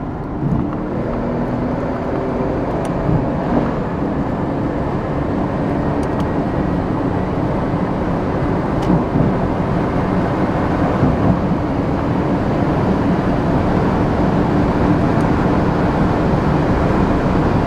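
Porsche 911 Turbo's twin-turbo flat-six with a Tubi-style exhaust running steadily under way, with tyre and road noise, heard from inside the cabin; the sound grows slowly louder.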